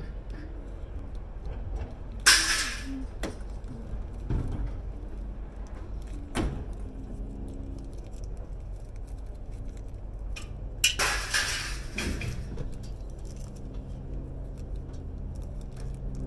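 Scrap metal clattering as it is handled and thrown: a sharp metallic crash about two seconds in, a longer clatter of several hits about eleven seconds in, and lighter knocks in between, over a low steady rumble.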